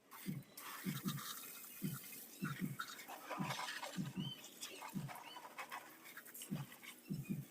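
Rhythmic back-and-forth scrubbing on a motorbike's body while it is washed, the strokes coming about two a second, often in pairs, with a scratchy brushing hiss over them.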